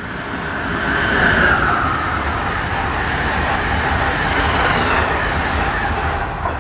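An Amtrak ACS-64 electric locomotive and its passenger cars passing at speed: a loud rush of wheels on rail and moving air that builds over the first second and eases off near the end.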